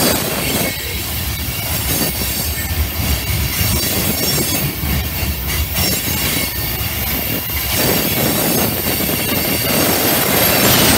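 Tank cars of a freight oil train rolling past on curved track: a steady low rumble of wheels on rail with a high squeal from the wheels on the curve.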